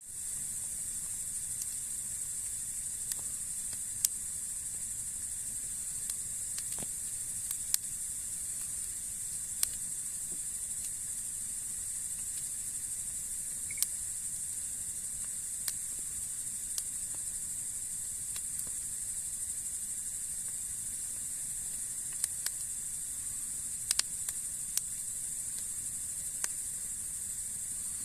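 Wood fire burning, with sharp crackling pops at irregular intervals a second or few apart over a steady high hiss.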